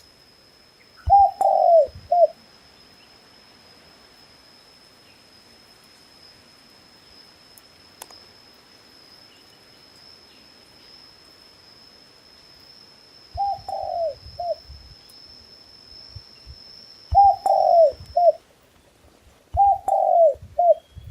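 A dove cooing: four short phrases of three low notes each, the middle note falling, one about a second in and three more in the second half.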